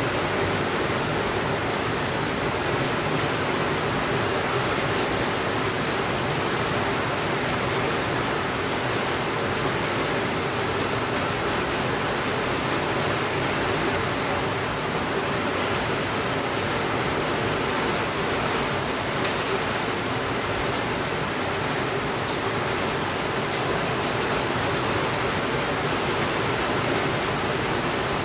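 Steady, even rainfall with no thunder, and a few faint ticks about two-thirds of the way through.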